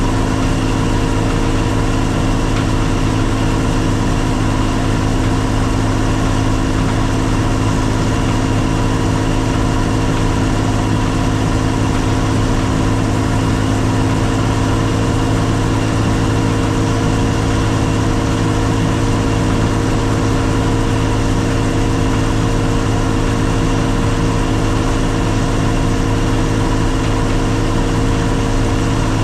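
Combine harvester running steadily: an even engine sound with a constant pitch that does not change.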